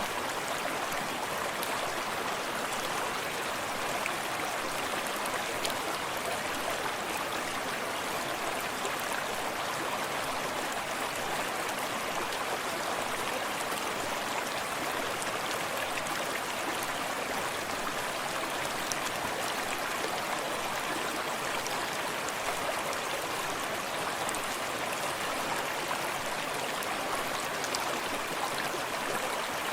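Small forest stream running steadily, water splashing and babbling over rocks, with the rush of a small waterfall behind it.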